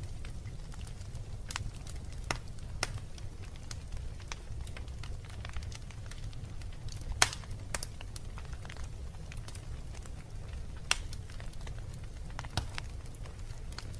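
Wood fire burning in a fireplace: scattered crackles and pops over a steady low rumble, with the loudest pops about seven and eleven seconds in.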